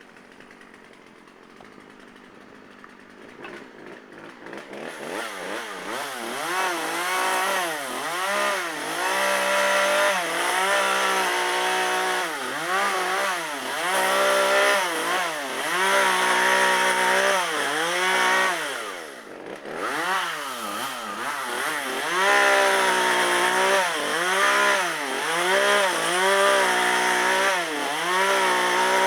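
Repaired Poulan two-stroke chainsaw revving up and down over and over while being test-run. It is faint at first, turns loud about five seconds in, and its revs drop briefly about two-thirds of the way through.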